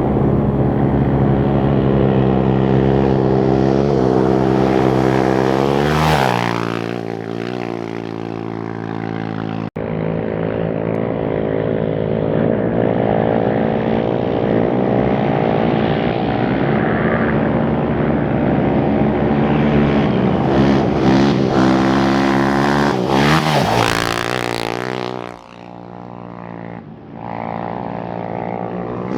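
Off-road race motorcycles running at high revs past the roadside. One passes close about six seconds in, its engine pitch dropping as it goes by. Another climbs in pitch and passes near the end.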